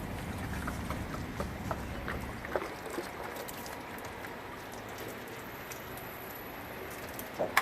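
Distilled water being poured into the engine block of a 1959 Cadillac to flush out the old coolant: a steady rush with scattered light drips and taps.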